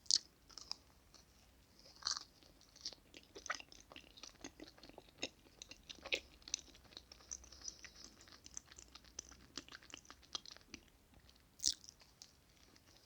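Close-miked chewing and wet mouth sounds of someone eating chocolate cake: a dense run of small sticky clicks, with a sharper, louder sound at the start and another near the end.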